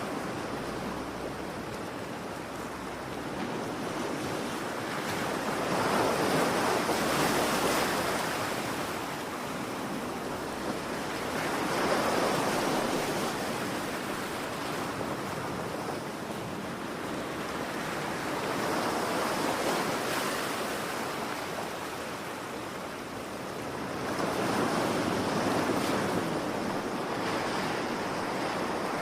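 Ocean waves breaking and washing ashore: a continuous rush of surf that swells with each wave about every six seconds, four times in all.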